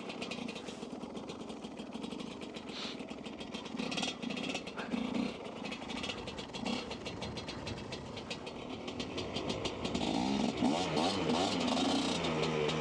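Dirt bike engine running while ridden, revved up and down about ten seconds in, then falling in pitch near the end as the bike eases off.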